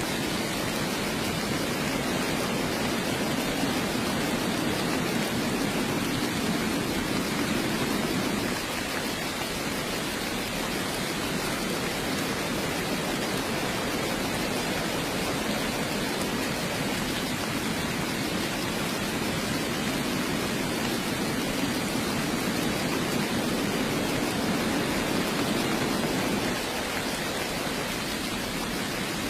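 Heavy rain falling as a steady, even hiss. A deeper, fuller layer of the rain drops away about a third of the way in, returns, and drops away again near the end.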